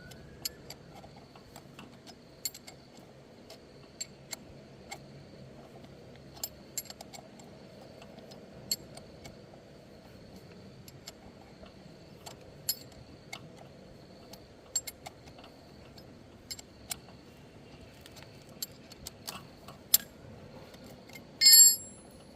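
Scattered sharp clicks and light metallic taps of hand tools and metal parts during tyre and inner-tube work, with a louder metallic clatter near the end.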